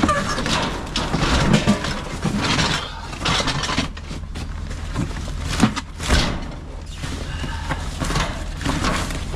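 Cardboard boxes and their contents being shifted and rummaged through: irregular rustling with a few sharp knocks, over a steady low rumble.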